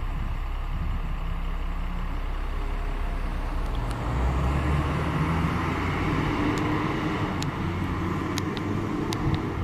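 125cc pit bike engine running, getting louder about four seconds in, with a few sharp ticks in the later part.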